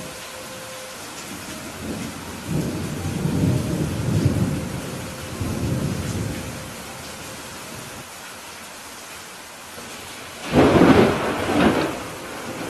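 Steady rain falling in a thunderstorm, with thunder rumbling for a few seconds starting about two and a half seconds in, then a sudden, louder thunderclap near the end.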